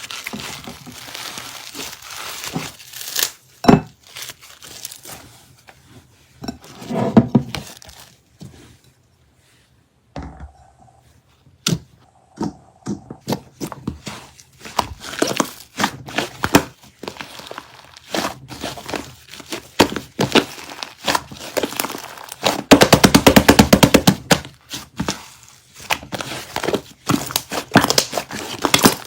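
Slime being squished and pressed by hand, with irregular sticky clicks, crackles and pops of trapped air. About two-thirds of the way through, a dense, rapid run of pops lasts about two seconds.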